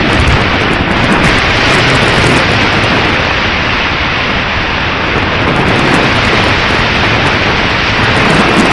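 Strong wind buffeting the microphone, loud and continuous with an uneven low rumble and steady hiss.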